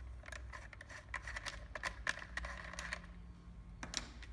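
Irregular light clicks and taps of small metal parts and tools being handled while a cordless fencing stapler is taken apart on a bench, over a low steady hum.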